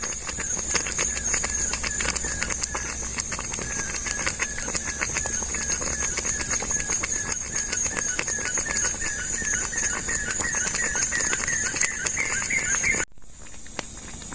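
Tropical forest wildlife chorus: a steady high insect drone, a repeated chirping call whose notes climb a little higher toward the end, and many quick irregular clicks. The sound drops off sharply about thirteen seconds in.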